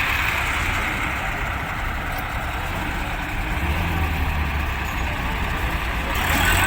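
Heavy diesel vehicle engine running steadily under load, a low rumble that grows stronger from about three and a half seconds in.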